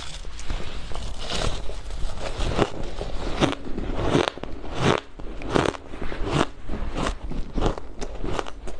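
Soft, powdery ice being bitten and chewed: a steady run of crunches, a little more than one a second.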